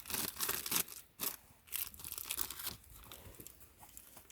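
Plastic MRE accessory packet being torn open and its contents crinkling: a run of sharp rustles and tears that dies down after about three seconds into faint scattered rustling.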